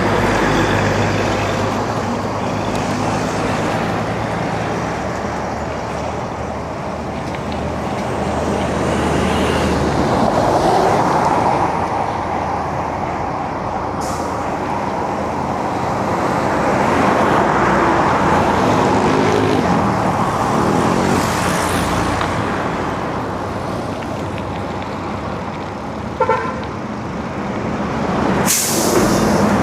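Road traffic heard from a bicycle in town: engines of passing cars and trucks swelling and fading over a steady noise of tyres and wind. A short horn beep sounds about 26 seconds in.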